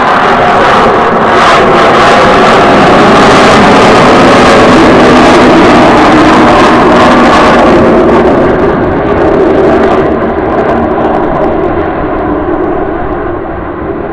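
F-35A Lightning II fighter's jet engine making a very loud roar as the jet flies past. The roar fades and grows duller from about eight to ten seconds in as the jet moves away.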